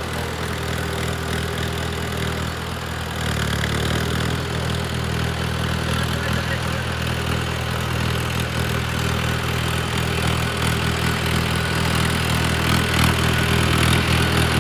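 An engine running steadily with a low, even hum, growing louder about three seconds in.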